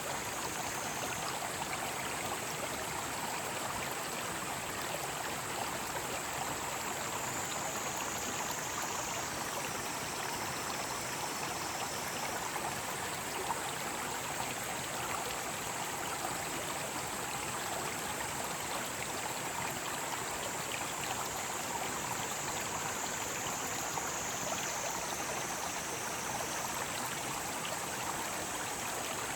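Mountain stream flowing steadily, with cicadas singing in a high, continuous drone above the water; now and then a cicada's call steps a little lower in pitch for a few seconds.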